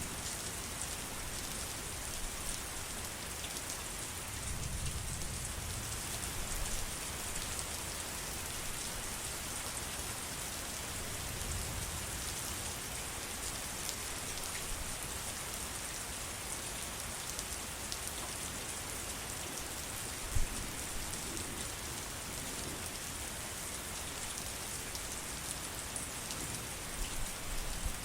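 Steady rain falling, a dense even hiss of drops. There are a few soft low swells, and one sharp tap about two-thirds of the way through.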